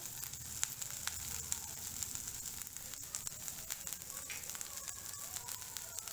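Sweet corn kernels frying in butter in a kadhai, a steady sizzle with frequent small, irregular crackles.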